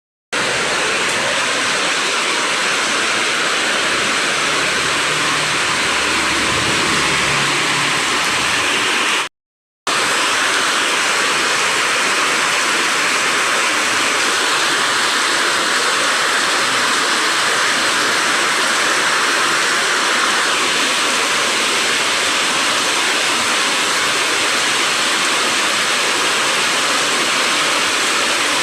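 Steady rushing roar of a tropical storm, heavy rain and wind or rushing water, with no distinct individual events. It cuts out for about half a second roughly nine seconds in, then carries on unchanged.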